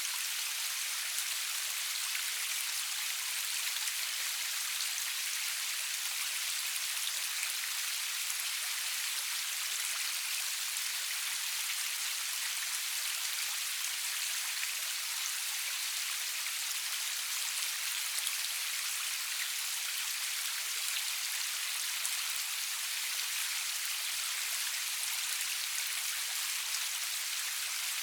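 Steady rainfall with no thunder: a dense, even hiss of drops, bright and high-pitched, with fine individual spatters in it and no lulls.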